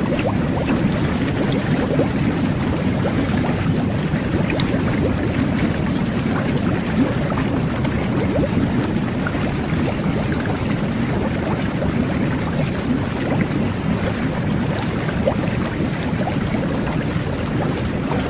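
Jet bath (whirlpool tub) running: water jets churning the bath water in a steady, dense bubbling rush, with many small bubble pops.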